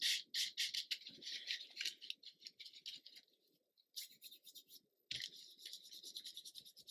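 Hands rubbing and working thin glued paper: a rapid run of short, scratchy strokes that pauses briefly about three seconds in and again near five seconds.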